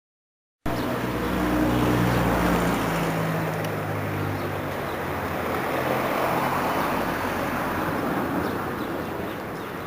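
Heavy storm downpour falling with a steady hiss and a few faint ticks, starting abruptly after a moment of silence. A low steady hum sits under it for the first few seconds, then fades.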